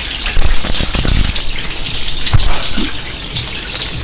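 Water running and splashing steadily from an overflowing kitchen sink, a constant hiss with spattering, and a few dull thumps about half a second to a second in and again a little past two seconds.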